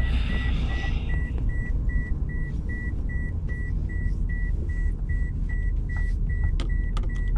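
2008 Toyota Corolla's seatbelt warning chime beeping, about three short high beeps a second, over the low rumble of the car running, heard inside the cabin: the reminder that the driver's seatbelt is unfastened. A rustle in the first second and a few sharp clicks near the end.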